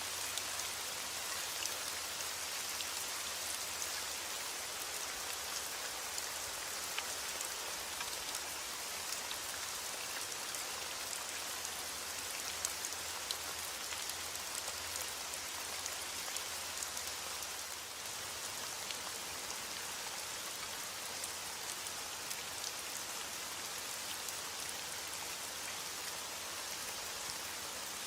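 Steady heavy rain falling, with a constant hiss and many individual drops pattering on a surface.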